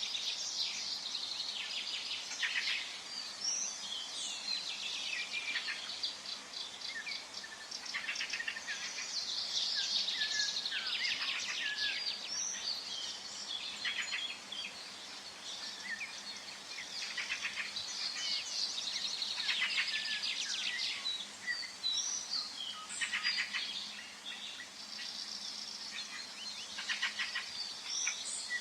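Forest ambience of several songbirds singing at once: overlapping chirps, whistles and rapid trills coming and going throughout, over a faint steady background hum.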